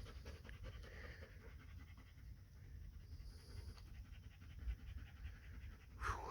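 A dog panting quietly in quick, even breaths.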